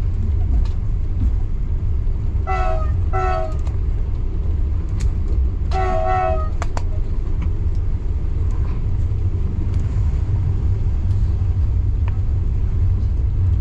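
Train running with a steady low rumble and a few sharp clicks, its horn sounding two short toots about two and a half seconds in and one longer blast about six seconds in.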